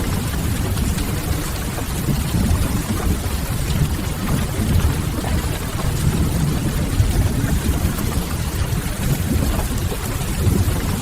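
Steady rain with a deep low rumble underneath and a few faint crackles, as in a mixed rain-and-fireplace ambience.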